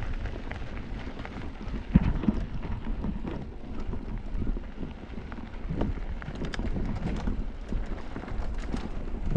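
Wind buffeting the action camera's microphone over the rattle and knocks of an electric mountain bike riding down a rough dirt trail, with one sharp knock about two seconds in.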